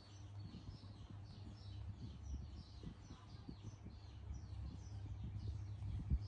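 Small birds chirping in the background, short high chirps that fall in pitch, several a second throughout, over a low rumble with small knocks. A sharp thump comes about six seconds in.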